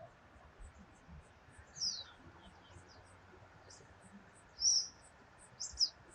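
Birds chirping: a few short, high calls, one a quick falling whistle about two seconds in, with louder chirps near the end.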